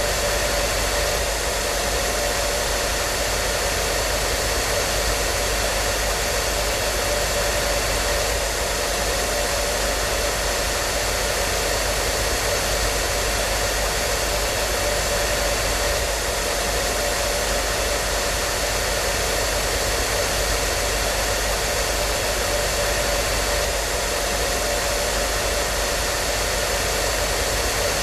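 Hair dryer running continuously at a steady speed: an even rushing noise of blown air with a constant motor hum underneath.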